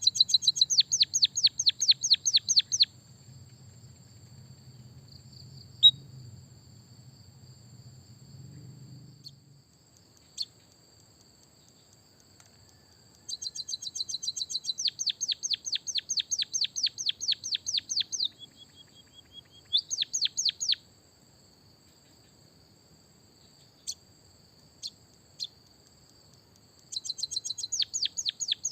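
Caged songbird singing fast, rolling trills of rapidly repeated sweeping chirps in four bouts, the longest about five seconds. The bouts are separated by quiet gaps with a few single chirps.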